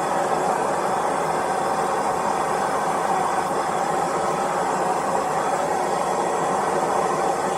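A blacksmith's forge running: a steady, unchanging rushing noise.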